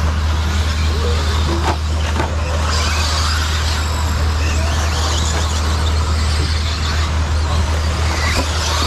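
RC stadium trucks racing around the track, their motors whining up and down in pitch over a steady low drone.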